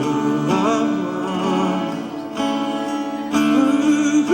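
Worship music from a live gospel band: sustained guitar chords that change every second or so, with a wavering melodic line over them about half a second in.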